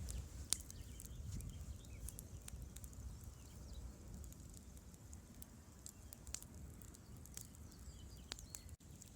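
Campfire crackling, with irregular sharp pops and snaps, one louder pop about half a second in, over the low steady rumble of a river.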